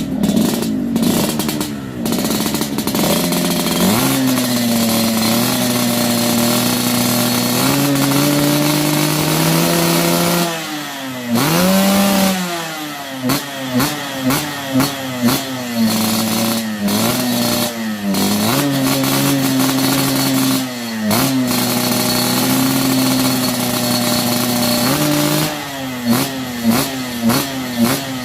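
Yamaha RX-King single-cylinder two-stroke motorcycle engine running with a deep, snoring exhaust note. It holds steady at a fast idle between throttle blips, with one long rev about halfway and a run of quick blips soon after and again near the end.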